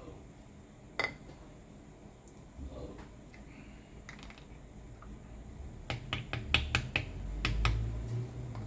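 A few scattered sharp clicks, then a quick run of about eight clicks and taps in a second or so, over a low rumble: tool parts being handled and fitted together during repair work.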